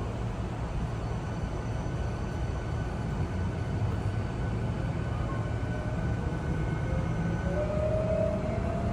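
Hankyu Kyoto Line train running between stations, heard inside the car: a steady low rumble of wheels on rail, with a rising motor whine coming in near the end.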